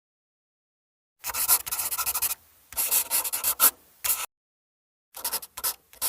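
Quick runs of dense, scratchy clicking in short bursts, with brief pauses between them: one a little after the start, a second about a second later, a short third near the middle, and a fourth toward the end.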